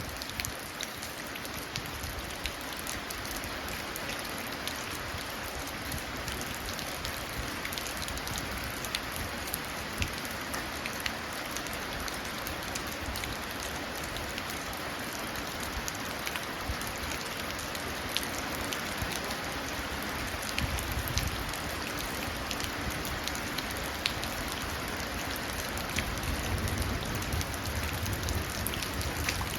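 Steady rain pattering into a puddle, with many small drop splashes. A low rumble of distant thunder builds over the last few seconds.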